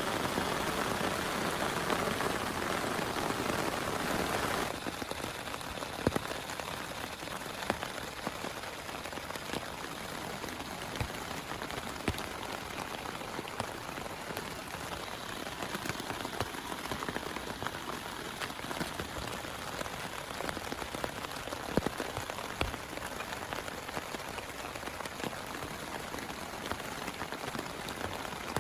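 Steady rain falling, with separate drops ticking sharply now and then. It is heavier and louder for the first few seconds, then drops suddenly to a lighter, even rainfall.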